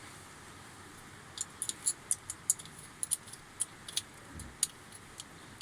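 Light, irregular metallic clicks and clinks of small parts and tools being handled while a replacement motor is fitted into a sheep shearing machine. They start about a second in and come several times a second.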